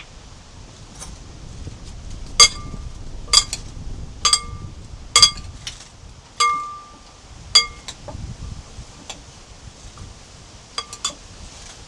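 Dishes clinking: about six sharp clinks roughly a second apart, each with a short ringing note, then a few lighter clinks near the end.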